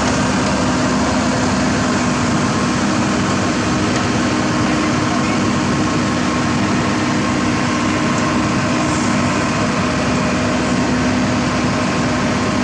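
Engine of heavy road-construction machinery running steadily at a constant pitch, a continuous drone with no revving or breaks.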